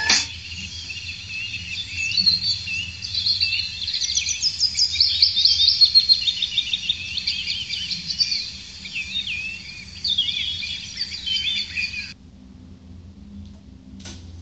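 Birds chirping and singing: many quick, high calls rising and falling in pitch, which stop abruptly about twelve seconds in, leaving a faint low hum.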